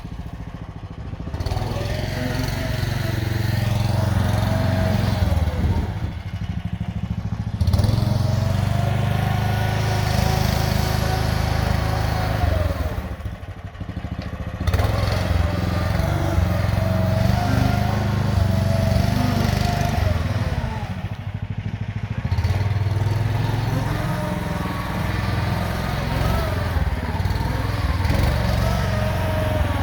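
Compact tractor engine running under working load, with a whine that rises and falls in pitch over it. The engine eases off briefly about every seven seconds, then picks up again.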